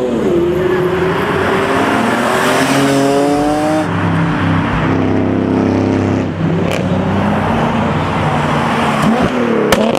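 High-performance car engine revving hard, its pitch climbing and falling. Near the end comes a sharp exhaust bang, a backfire that threw a flame from the exhaust.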